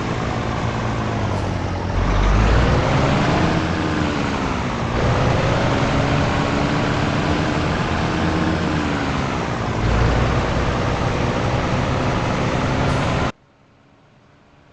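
Scania T113 truck's six-cylinder diesel engine pulling under load, its pitch climbing and dropping in several surges as it works through the gears. The sound cuts off suddenly near the end, leaving a faint hiss.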